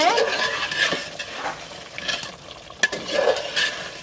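Chicken pieces in spice paste being stirred in a cooking pot, sizzling as they fry down dry, with a few sharp clinks of the spoon against the pot.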